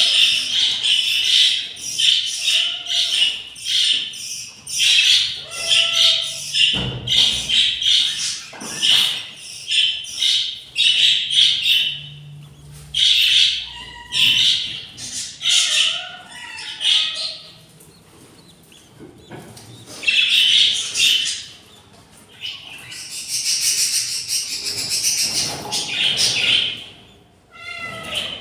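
Budgerigars chirping and squawking in quick, high, repeated calls, packed closely at first, then coming in bursts with short lulls between.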